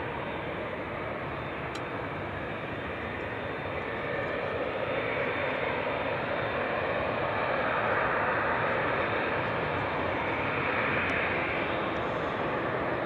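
Jet airliner's engines passing close by: a steady rushing noise that swells about four seconds in, is loudest around the middle and eases slightly toward the end.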